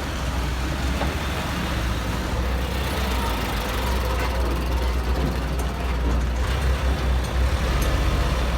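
A heavy vehicle's engine running steadily, a continuous low rumble with broad mechanical noise above it.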